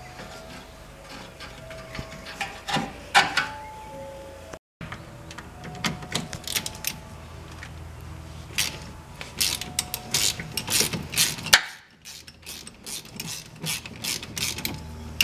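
Hand tools working on a car's front suspension: quick runs of metal clicking and rattling, like a ratchet on bolts, with brief squeaks and clatter, broken into short cut-together bits.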